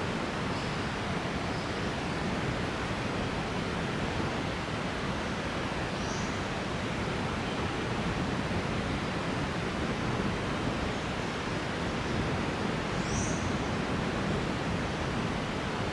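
Steady rushing outdoor noise, even and unbroken, with two brief faint high chirps about six and thirteen seconds in.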